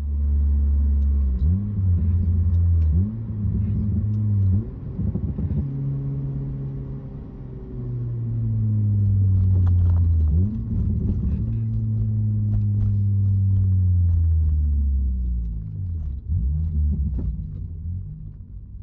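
2006 Acura RSX Type-S's K20Z1 four-cylinder engine through an Invidia N1 cat-back exhaust: a deep, low exhaust note whose pitch climbs sharply several times and then sinks slowly over a few seconds each time.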